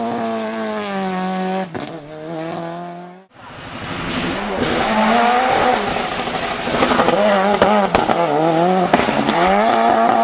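Turbocharged Toyota Corolla rally car under hard throttle. The engine holds a high note, drops to a lower held note about 1.7 s in, then cuts off abruptly about three seconds in. It is followed by the engine revving up and down with tyre squeal and high thin whistles as the car slides.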